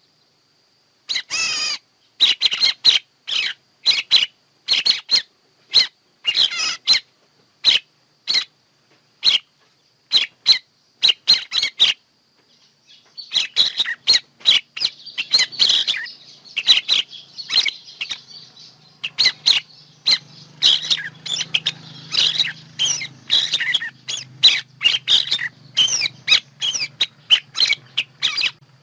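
Recorded bird calls of the kind played as a lure for bird trapping: short, sharp, high chirps repeated about once or twice a second, turning dense and overlapping about halfway through. A faint low hum runs under the second half.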